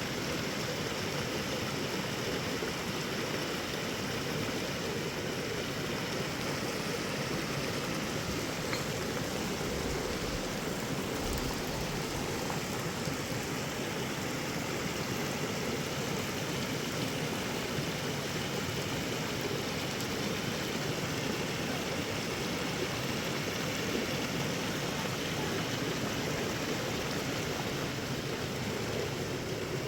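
Steady rushing of heavy rain and running rainwater, an even hiss with no break or change.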